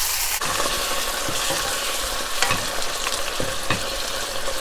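Kung pao chicken and its sauce sizzling in a hot wok while a spatula stirs it, with scattered clicks of the spatula against the wok.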